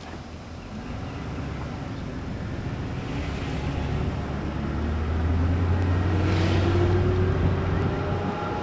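A motor vehicle's engine growing louder as it approaches and passes, its pitch rising slowly in the second half and easing off near the end.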